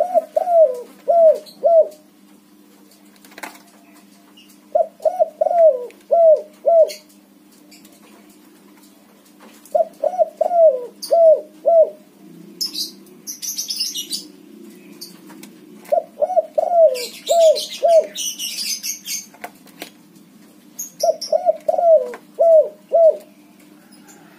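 A white spotted dove (tekukur) cooing. It sings a phrase of four or five quick, down-slurred coos about every five seconds, five times. Twice in the middle, between phrases, there is a brief higher hissing rustle.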